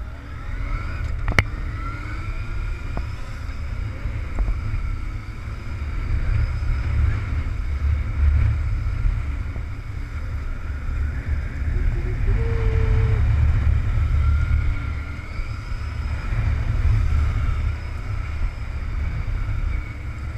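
Heavy wind buffeting on the microphone over a motorcycle engine running at a near-steady pitch that rises and falls a little, as at constant throttle in second gear during a back-and-forth steering drill. A single sharp click comes about a second in.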